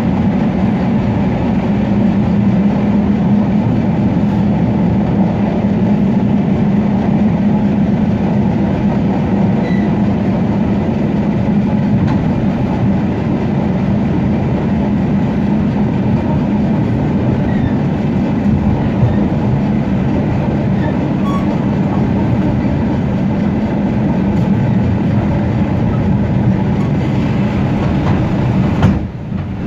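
Suburban electric train (elektrichka) running at speed, heard from inside its vestibule: a steady rolling rumble with a low hum. The sound briefly drops out near the end.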